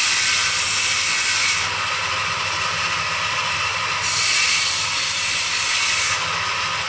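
An electric power tool running steadily with a continuous hiss over a low hum.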